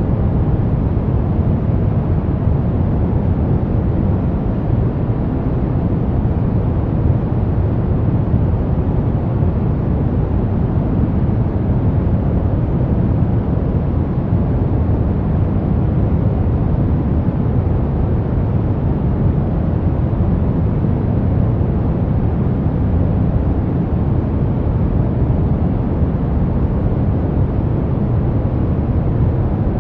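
Steady brown noise: an even, deep hiss weighted heavily to the low end, with little above a few kilohertz.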